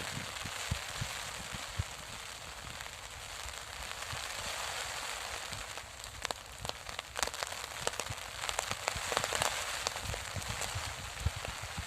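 Heavy rain falling, a steady hiss with a run of sharp drop ticks in the second half.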